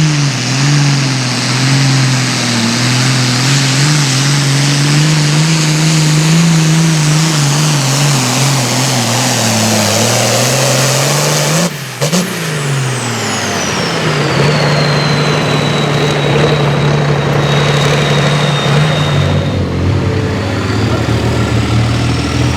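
Super Farm pulling tractor's turbocharged diesel engine running hard, its pitch rising and falling. About halfway in there is a sudden break, and then an engine runs at a steadier pitch under a high whine that falls in pitch and levels off.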